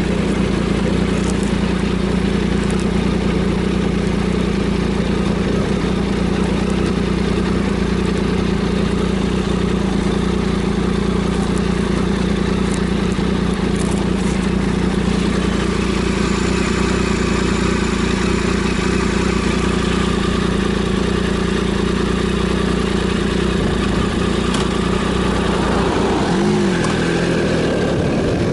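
Triumph Sprint ST 1050's inline three-cylinder engine running at a steady speed. Near the end the engine note dips and then rises again.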